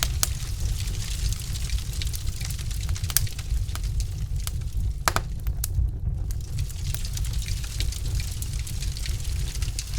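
Wood fire burning in a fireplace: logs crackling with scattered sharp pops over a steady low rumble of the flames, one louder pop about five seconds in.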